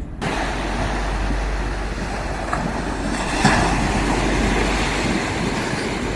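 Sea surf washing steadily on the beach, swelling a little about halfway through, with wind rumbling on the microphone.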